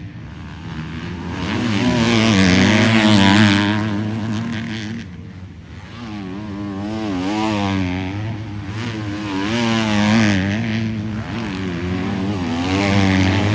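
Several 250-class motocross race bikes riding past on the track, engines revving up and down as the riders work the throttle. The sound swells loudest about two to three seconds in, fades briefly around the middle, then builds again as more bikes come through.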